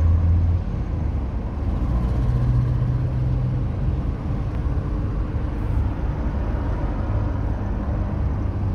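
Car engine running steadily, a low hum whose pitch shifts slightly, over a steady rushing background.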